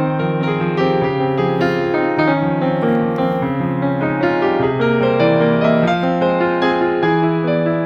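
Background piano music: a gentle melody of clear notes over sustained chords at an even pace.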